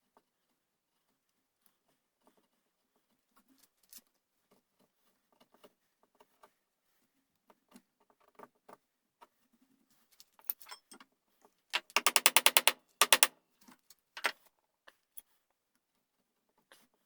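Hand tools working the buttplate inlet in a wooden gunstock: scattered light taps, clicks and scrapes, with a quick rattling run of taps about twelve seconds in that is the loudest part.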